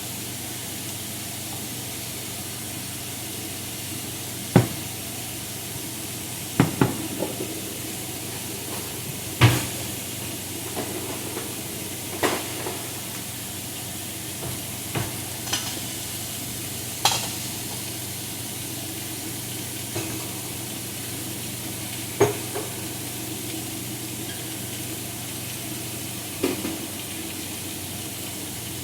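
Food sizzling in a frying pan with a steady hiss, broken by about ten sharp knocks and clinks of a utensil against the pan.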